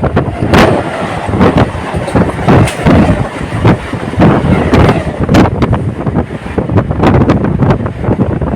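Local passenger train running at speed: a steady rumble with irregular knocks and clatter of wheels over the track, and wind buffeting the microphone.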